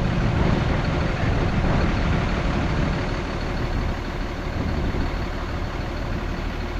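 Heavy diesel earthmoving machinery running steadily with a deep engine drone, easing slightly about halfway through.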